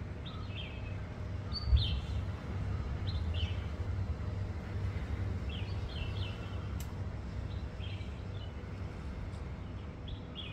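Small birds chirping, short high calls repeating in ones and twos every second or so, over a steady low rumble; a single low bump about two seconds in.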